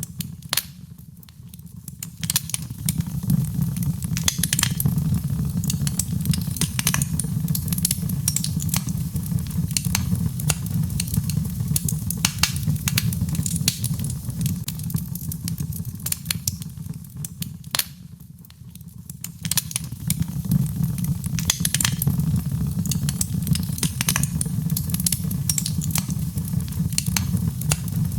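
Birchwood fire burning in a fireplace: a low rumble with frequent sharp crackles and pops. The rumble eases twice, about a second in and again around eighteen seconds in.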